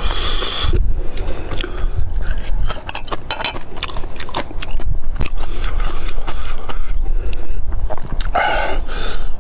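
A person biting and chewing crunchy kimchi close to the microphone: irregular crisp crunches and mouth clicks, over a steady low rumble.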